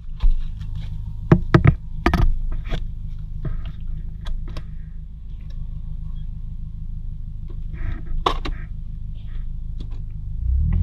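Car engine idling, heard from inside the cabin, with a string of sharp clicks and knocks over the first few seconds and another pair about eight seconds in.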